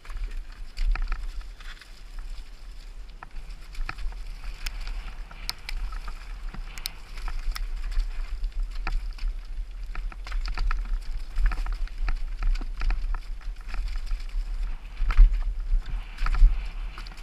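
Wind buffeting the microphone with a low, uneven rumble, under a hiss and scattered clicks and rattles. The clicks cluster most densely about three quarters of the way through.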